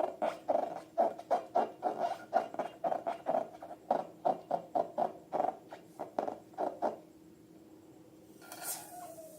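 Rhythmic rubbing strokes, about three a second, each with a slight squeak, stopping about seven seconds in. Near the end comes a sudden squeal that slides slightly down in pitch.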